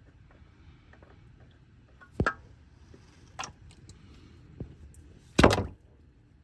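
Four separate knocks and clunks of hard objects being handled, the last one the loudest and slightly longer, near the end.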